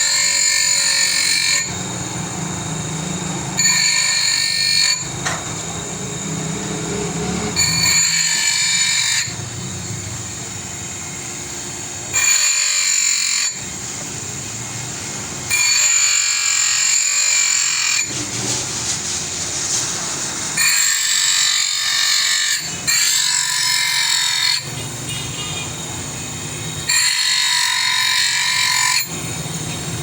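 A power tool working in repeated passes. About eight times, a louder high whine lasts a second or two, and between the passes it drops back to a lower running hum.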